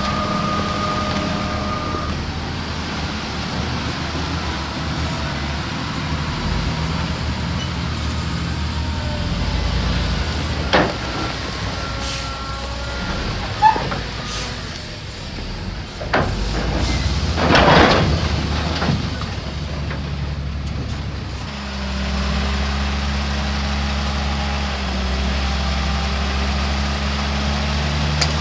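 Heavy diesel engines of a dump truck and a Shantui DH17C3 bulldozer running steadily, with a few short clicks and a burst of hiss a little past halfway. A deeper, louder engine note comes in about three quarters of the way through.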